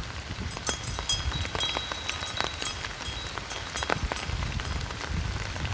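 Rain falling, with many irregular drop ticks on a nearby surface over a steady hiss.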